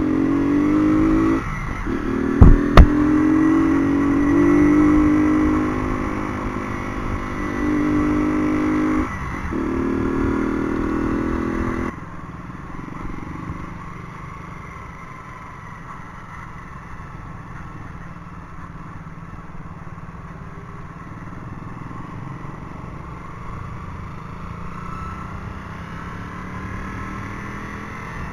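Motorcycle engine revving and pulling, its pitch rising and falling, with short dips like gear changes and two sharp knocks close together near the start. About twelve seconds in the engine note cuts to a quieter, steady running sound.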